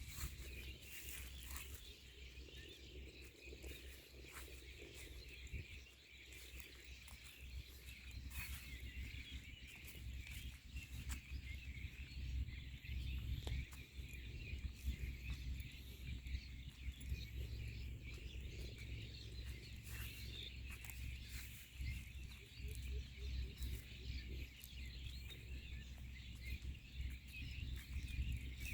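Many small birds chirping and twittering over one another in a dense, continuous chorus, over a steady low rumble with a few scattered clicks.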